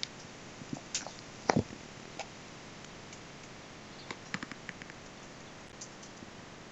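Steady faint hiss with scattered sharp clicks and taps, including a quick run of about six ticks around four seconds in.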